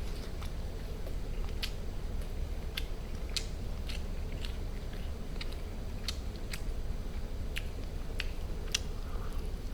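A person chewing food close to the microphone: wet mouth clicks and smacks, about one or two a second, over a steady low hum.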